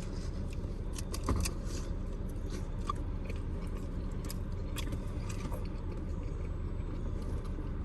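A man biting into and chewing a steak-and-cheese quesadilla, with scattered small mouth clicks.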